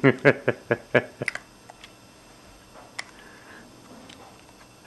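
A voice making a quick run of short repeated syllables, about six a second, for the first second or so, then quiet room tone with a couple of faint clicks.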